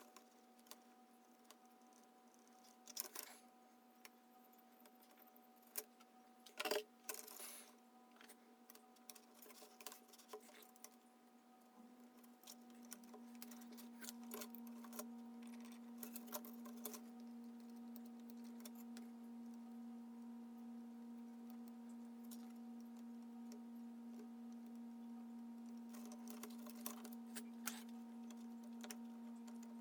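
Faint scattered clicks and light knocks of small parts and tools being handled while old, thickened grease is cleaned off and new grease applied, over a steady low hum that grows louder about twelve seconds in.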